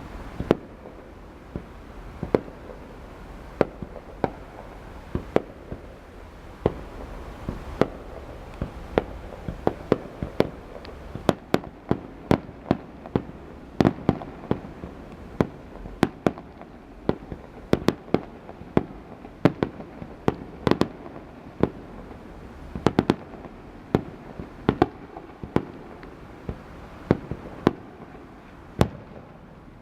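Fireworks going off: a long, irregular run of sharp bangs, sometimes several in quick succession, more densely packed through the middle.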